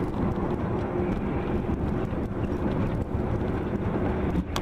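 Steady rumble of a moving car's engine and road noise, with a faint low hum through it.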